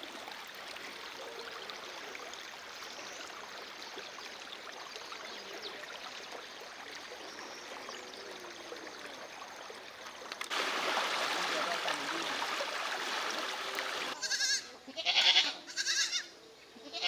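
Floodwater rushing in a steady wash of noise that turns markedly louder about ten seconds in. Near the end come several short, loud, pitched calls.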